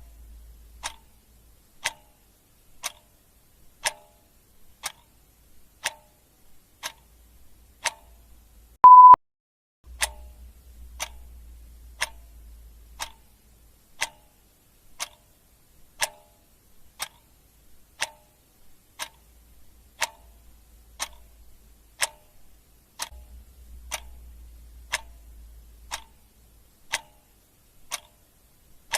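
Clock ticking steadily, about one tick a second. About nine seconds in, a single short high beep, louder than the ticks.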